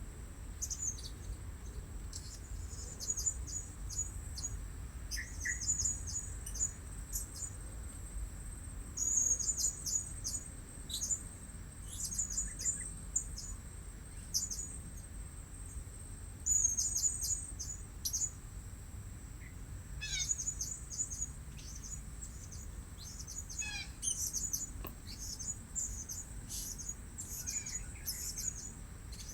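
Blue-crowned hanging parrots calling: very high, thin chirps in quick clusters every second or two, over a steady high whine.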